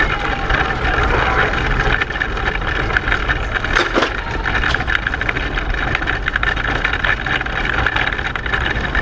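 Onboard noise of a racing pedal car running at speed: a continuous rattling clatter with a low rumble underneath.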